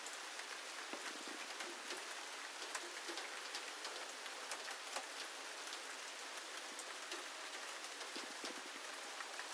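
Steady rain falling, with many small sharp drop ticks scattered through it.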